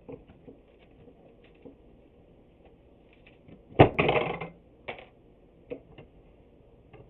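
Hand handling of clamps and wooden boards: scattered light clicks and taps, then a sharp knock about four seconds in followed by a short scraping rattle.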